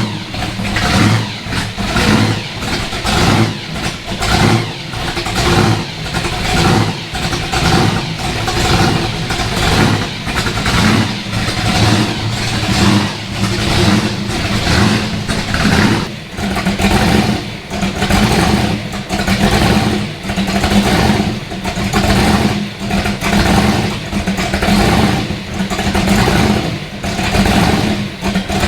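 Ford Mustang Shelby GT500's V8 running through a new exhaust, revved up and let fall over and over, about once a second.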